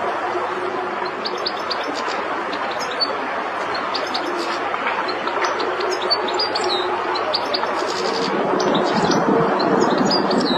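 European goldfinch singing: a quick, continuous run of short, high twittering notes and trills over a steady background hiss.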